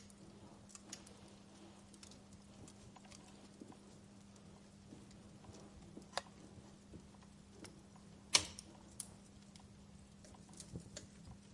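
Wood fire crackling in a fireplace: scattered small ticks with a few sharper pops, the loudest about eight seconds in, over a faint steady low hum.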